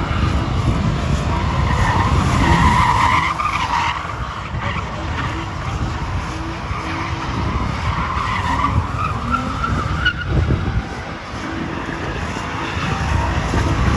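A car doing a burnout or drift, its tires squealing in wavering screeches over the engine running hard. The squeal is loudest a couple of seconds in and again near the end.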